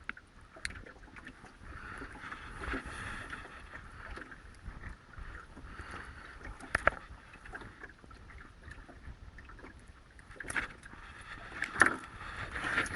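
Outdoor wind-and-water noise with scattered clicks and knocks, the sharpest about seven and twelve seconds in.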